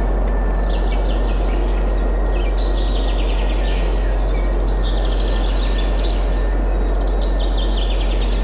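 Wind blowing steadily with a low rumble, under birds singing repeated fast trilling phrases, a new phrase every second or two.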